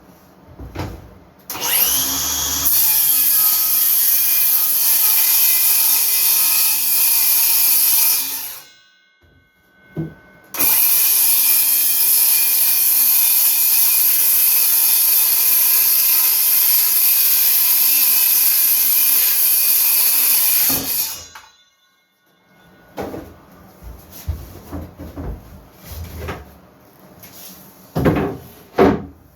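Power saw cutting wood, run twice: each time it spins up, cuts steadily for several seconds and winds down. A few knocks from handling the boards follow near the end.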